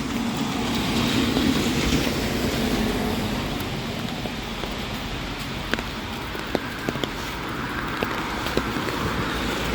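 A vehicle's tyres hissing on a wet road, swelling over the first few seconds and then fading into steady rain noise, with a few scattered small ticks.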